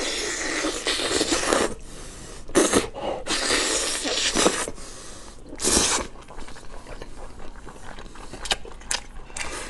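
Close-miked eating: several loud, hissing mouth noises, long slurps or sucks at the meat, come in the first six seconds. After them there are only soft chewing and lip-smacking clicks.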